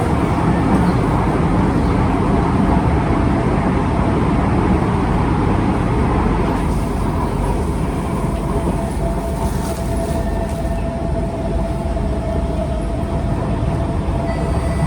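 Kawasaki C151 metro train running on the track, heard from on board: a continuous rumble of wheels and running gear. A steady whine comes through from about two-thirds of the way in.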